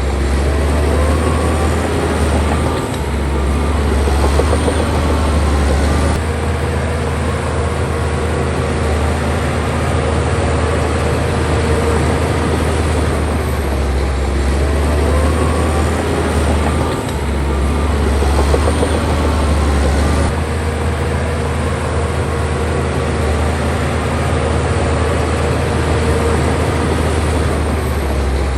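Bulldozer's diesel engine running steadily while it works, with short squeaky glides heard now and then.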